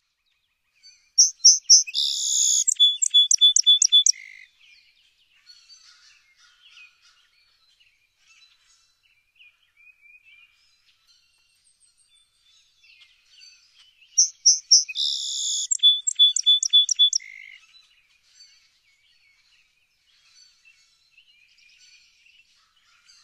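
A songbird singing the same short, loud phrase twice, about thirteen seconds apart. Each phrase has a few high notes, a dense burst, then a quick run of clicking notes and one lower note. Faint scattered chirps fill the gaps.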